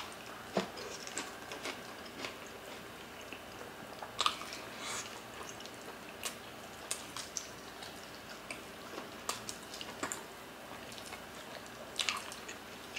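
Two people eating oxtail kare-kare by hand: chewing, with irregular wet mouth smacks and clicks, a few louder ones about four seconds in and near the end.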